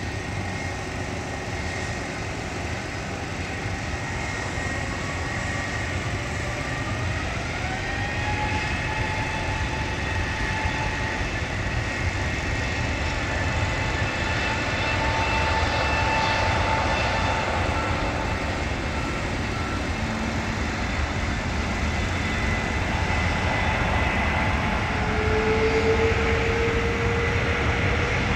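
Jet airliner engines, a steady rumble with a turbine whine. The whine rises in pitch about six seconds in, then holds while the sound slowly grows louder, as the engines spool up for takeoff.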